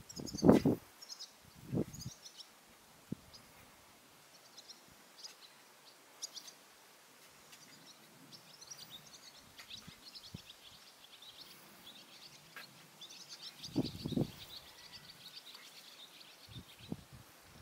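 Small birds calling with quick high chirps, most continuous through the middle and latter part. A few low dull thumps break in, the loudest just after the start and another cluster about fourteen seconds in.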